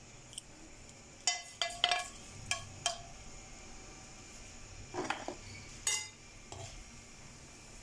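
Raw pani puri discs frying in hot oil with a faint steady sizzle. A quick run of sharp clinks against the pan comes about a second in, and two duller knocks follow around five and six seconds in.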